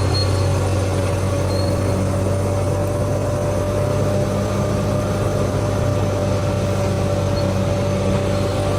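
Bulldozer's diesel engine running steadily, a low drone with a constant higher whine over it.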